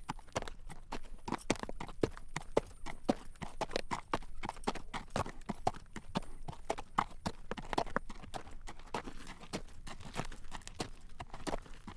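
Horse's hooves clip-clopping on a road at a walk while drawing a carriage: a steady run of sharp clacks, several strikes a second.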